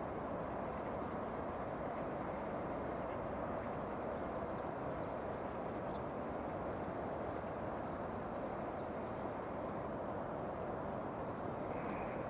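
Six-car JR West 413 series electric multiple unit running at a distance, a steady even rumble with no rise or fall. A few faint bird chirps sound above it.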